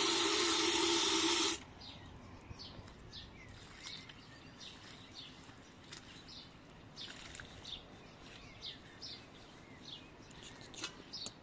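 A loud, steady hiss with a low hum cuts off abruptly about a second and a half in. After it, small birds chirp over and over in short, quick calls against a quiet outdoor background.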